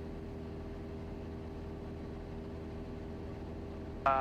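Cessna 172's piston engine and propeller drone steadily at cruise power, set to about 2300 RPM.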